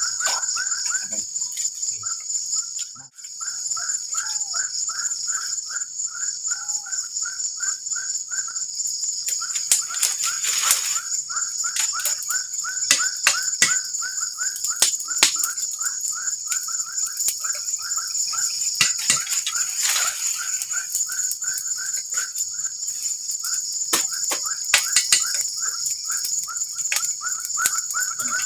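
Forest insect chorus at nightfall: a steady high shrill buzz with a lower chirp repeating three or four times a second, broken by scattered clicks and knocks.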